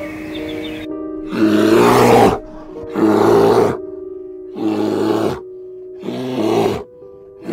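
Bear roaring four times, each hoarse roar under a second long and about a second and a half apart, over light background music.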